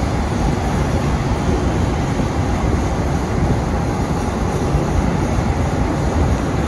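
Steady low rumble and rail noise of a passenger train in motion, heard from on board.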